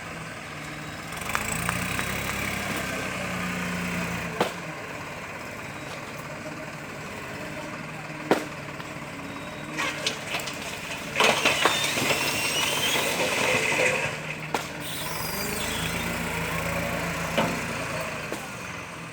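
New Holland 5510 tractor's diesel engine running, its pitch rising and falling as it is revved, with several sharp knocks and a louder, noisier stretch about eleven to fourteen seconds in.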